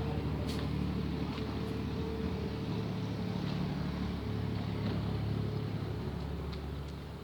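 Kirloskar tractor engine running at a steady speed, a low even drone with a few faint ticks over it; it eases off slightly near the end.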